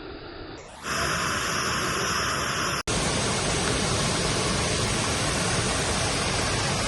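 Steady rushing of a waterfall, a continuous roar of falling water. It steps up louder about a second in and breaks off for an instant just before three seconds.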